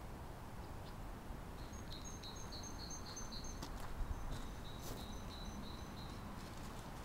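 A bird calling outdoors: two runs of short, high, repeated chirps, each lasting about two seconds, over a low steady rumble. A single thump about four seconds in.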